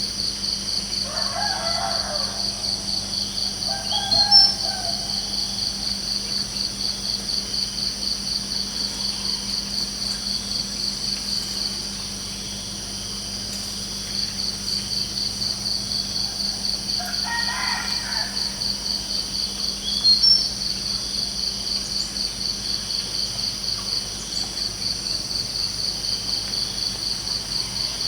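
Crickets chirping in a steady, fast pulsing trill that drops out for a couple of seconds midway. A rooster crows twice, about a second in and again past the middle, and each crow is followed a few seconds later by a short, sharp high chirp, the loudest sound here.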